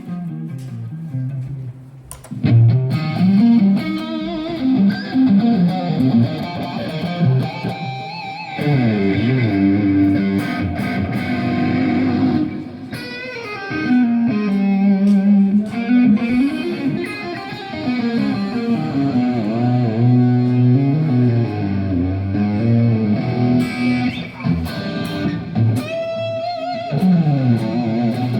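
Electric guitar playing melodic lead lines through an amplified rig, the notes bending and gliding up and down in pitch, over a lower bass part.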